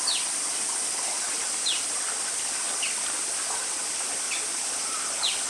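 Oriental small-clawed otters calling with short, high-pitched chirps that fall in pitch, about five at irregular intervals, over a steady hiss.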